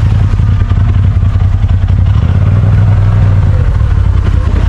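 Side-by-side UTV engine running under way, a steady low drone with a slight swell in the middle.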